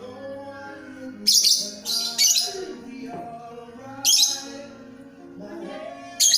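A bird chirping loudly in short, high bursts, about four times, over steady background music.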